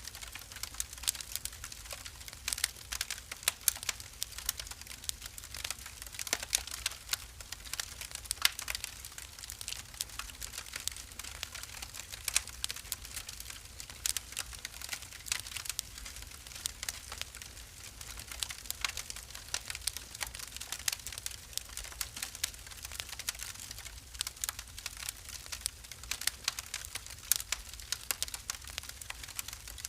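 Wood fire burning in a fireplace, crackling steadily with dense, irregular small pops and snaps over a low, even rumble of the flames.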